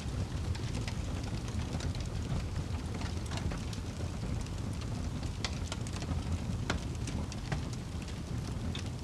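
Wood fire crackling, with scattered sharp pops and clicks over a steady low rumble.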